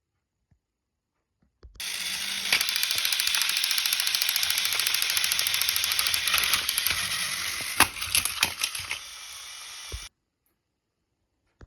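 A fast, dense mechanical rattle that starts abruptly about two seconds in, runs steadily with a few sharp clicks near the end, and then cuts off suddenly.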